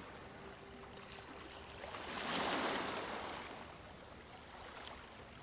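Gentle sea waves washing onto a beach, one wave swelling about two seconds in and drawing back, softly.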